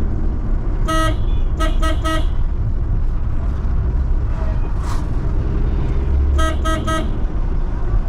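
A vehicle horn sounding in short toots, four in quick succession about a second in and three more near the end. Underneath is a steady low rumble of a vehicle's engine and road noise while driving.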